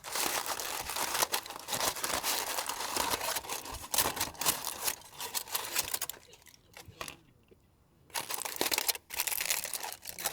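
Crinkling and rustling of a bag or wrapper being handled, in stretches that stop for about two seconds and start again near the end.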